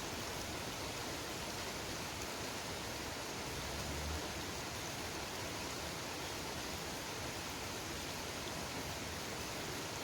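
Steady, even rush of running water. A brief low bump comes about four seconds in.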